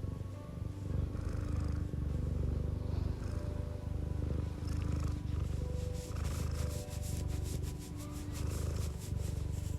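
Domestic cat purring close up: a low rattling rumble that swells and eases with each breath, about one cycle a second.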